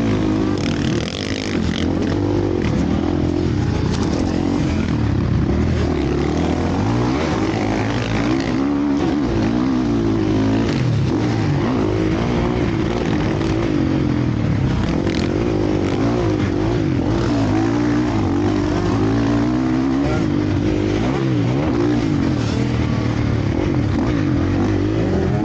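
Several motocross bikes racing, their engines revving up and down continuously with overlapping rising and falling pitches.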